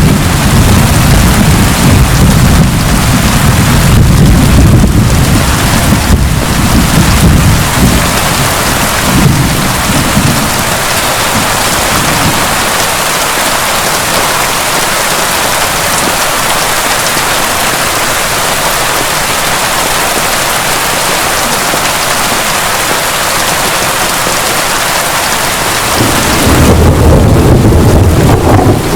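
Heavy, steady rain with thunder rolling in the first ten seconds or so. The rain then continues alone, and another deep roll of thunder begins a few seconds before the end.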